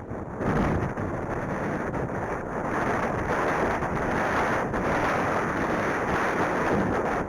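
Strong wind blowing across the microphone: a loud, steady rush of noise.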